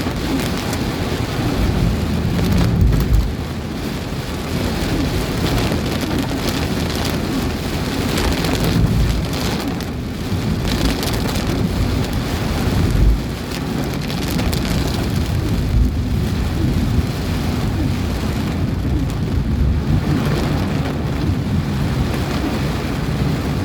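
Heavy rain falling steadily, with strong wind. Low rumbles swell up about three seconds in and again around thirteen seconds.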